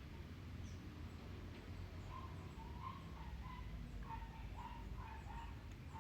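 Faint bird calls: short chirps repeating every half second or so, over a low steady hum.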